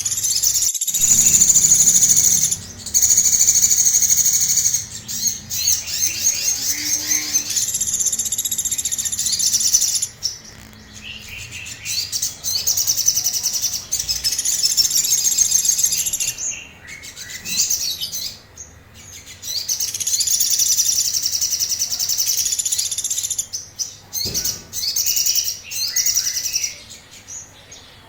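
Little spiderhunter (sogon) singing agitatedly in long bouts of rapid, high-pitched trilled notes, broken by short pauses.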